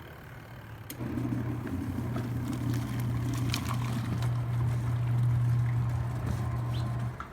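Portable mini washing machine's motor running with a steady low hum, starting about a second in and cutting off near the end.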